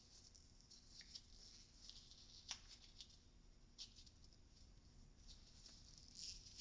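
Near silence with faint scattered clicks and light rustling of small parts being handled: diesel injectors being fitted with new rubber seals and crush washers. One sharper click comes about halfway through.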